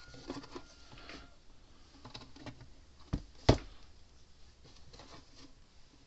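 Parts of an electric fence charger being handled during reassembly: scattered light clicks and taps, with two sharper knocks about three seconds in, the second the loudest.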